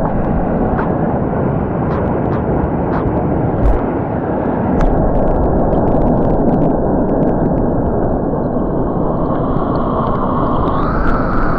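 Waterfall white water rushing, a loud steady noise with a few sharp ticks of splashing water.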